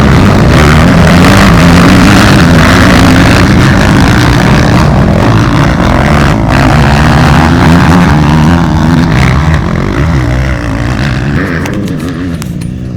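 Motocross motorcycle engines running hard and revving up and down, very loud, fading away over the last couple of seconds.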